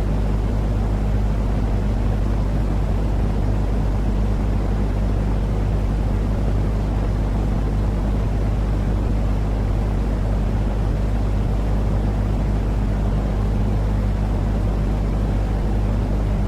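Continuous sleep noise for calming a baby: an even, low rumbling hiss with a constant low hum beneath it, unchanging in level throughout.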